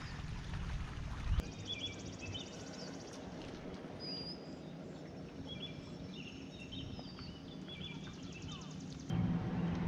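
Birds chirping and whistling in short phrases over quiet outdoor background noise. A low rumble fades out after the first second or so, and a steady low hum comes in near the end.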